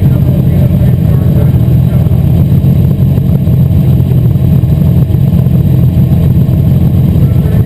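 Asphalt modified race car's engine running loud and steady at racing speed.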